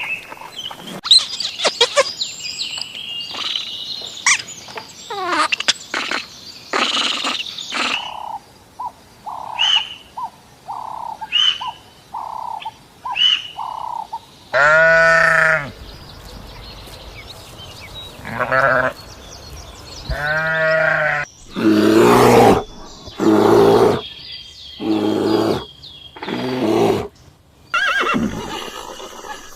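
A run of farm animal calls: high chirps and a string of short, evenly spaced calls in the first half, then a series of long, loud calls from larger animals, several in a row.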